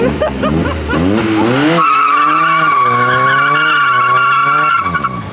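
A car engine revs up and is held high for about three seconds while the tyres squeal steadily, as in a burnout. Then the revs drop away near the end.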